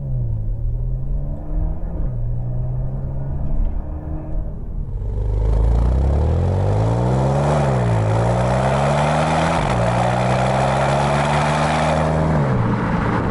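Porsche Macan with an Armytrix cat-back valved exhaust, valves closed, accelerating away through the gears. The engine note climbs and drops at upshifts about two, seven and a half and nine and a half seconds in, then eases off near the end. From about five seconds in, a louder rushing noise joins it.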